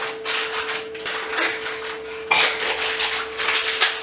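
A plastic packet being handled and pulled at to tear it open, giving irregular crinkling and rustling, with a steady hum underneath.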